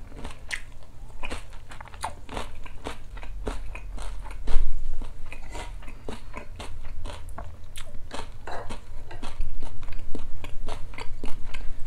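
Close-up chewing and crunching of a bowl of mooksabal (acorn jelly in cold broth topped with kimchi and cucumber), with many short, crisp crunches and a louder burst about four and a half seconds in.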